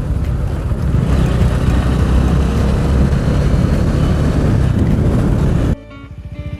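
Bajaj Dominar 400's single-cylinder engine running on the move, mostly buried under wind noise on the microphone. Near the end the wind cuts off abruptly, leaving the engine's steady, even pulsing beat.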